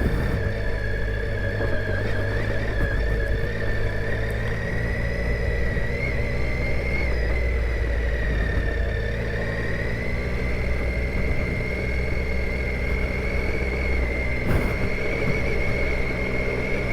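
Triumph Tiger 800 XCa motorcycle's three-cylinder engine running at low, fairly steady revs under way, a deep rumble with a thin whine above it that drifts slowly up in pitch.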